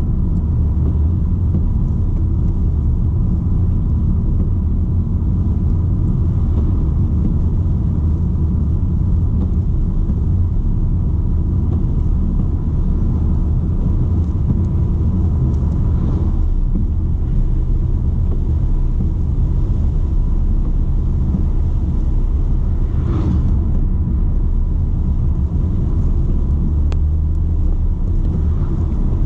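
BMW 120d's four-cylinder turbodiesel and tyres while driving: a steady low rumble of engine and road noise, with a faint constant engine drone and a couple of brief bumps along the way.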